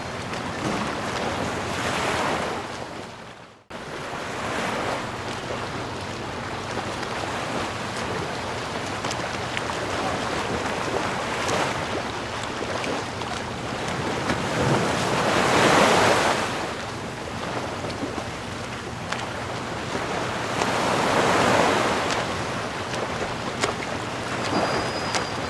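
Sea waves washing onto shore, a steady rush with surges that swell and fall back, the biggest about sixteen and twenty-one seconds in. About three and a half seconds in the sound fades out briefly and cuts straight back in.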